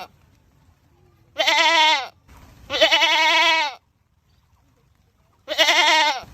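Goat screaming: three long, loud bleats with a quavering pitch. The first two come close together, and the third begins near the end.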